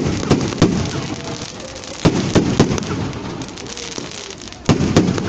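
A huge bonfire burning with a continuous dense crackle. Sharp loud bangs come in clusters of two or three: three right at the start, three about two seconds in, and two near the end.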